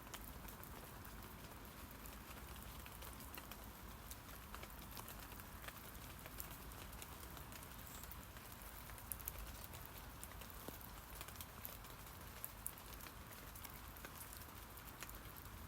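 Rain pattering on tree leaves: a steady hiss of many small drop ticks, with a few louder single drips about nine to thirteen seconds in.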